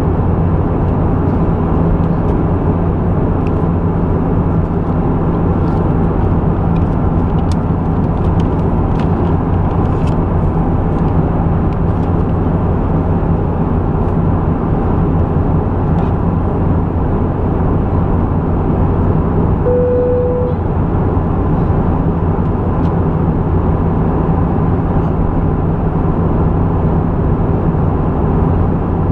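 Steady in-flight cabin noise inside an Airbus A320: engine drone and rushing airflow over a constant low hum. A brief single tone sounds once, about two-thirds of the way through.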